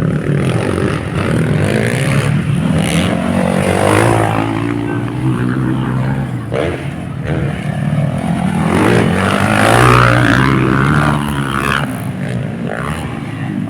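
Motocross bikes racing, their engines revving up and down in pitch as riders throttle through the course, with a few brief sharp cracks in the middle.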